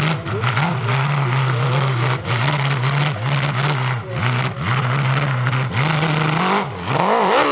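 Hill-climb motorcycle engine running at high revs, its note broken by short, irregular dips as the throttle is chopped and reopened. Near the end it climbs to a peak and then falls away.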